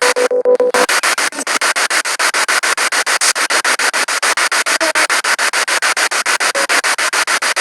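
Spirit box radio sweeping through stations: a rapid, choppy run of static bursts, about nine a second, with brief snatches of broadcast sound, including a short pitched fragment about half a second in.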